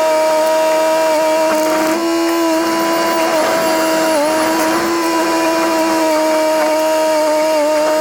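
Rubber-tracked Komatsu bulldozer running hard while pushing fill, a steady high whine with brief dips in pitch as the load comes on, about four seconds in and again near the end.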